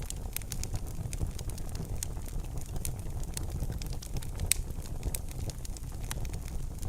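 Wood fire burning in a fireplace: irregular crackles and snaps over a steady low rumble of the flames, with one louder pop about four and a half seconds in.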